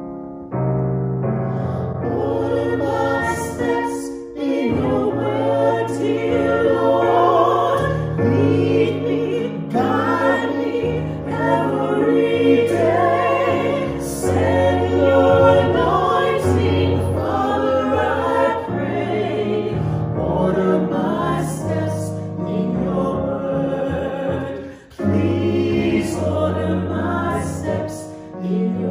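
Choir singing a hymn in phrases over a sustained keyboard accompaniment, with brief breaths between phrases about four seconds in and near the end.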